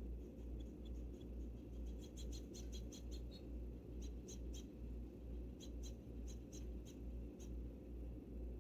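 Small sharp ticks and taps in quick clusters, typical of birds pecking seed and stepping on a window-mounted feeder, over a low hum that pulses about twice a second.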